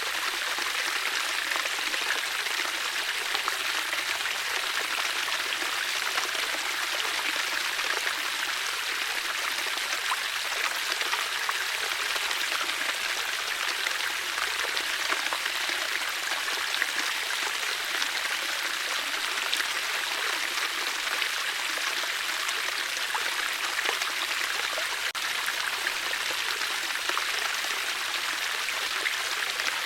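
Water flowing steadily, with a constant rushing and small splashes.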